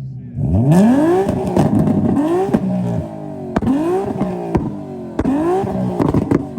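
Nissan VQ V6 engine being revved hard about four times, each rev climbing and dropping back in about a second, with sharp exhaust cracks between the revs.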